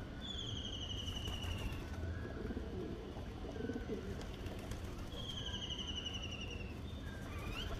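Birds calling: two high trills that fall slightly in pitch, each about a second and a half long and about four seconds apart, with softer lower calls in between.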